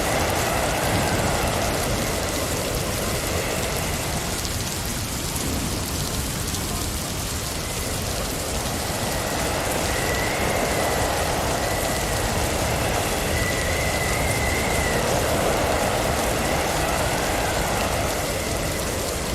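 Blizzard wind rushing steadily around a moving car. It swells into gusts a few times, with a faint, wavering high whistle.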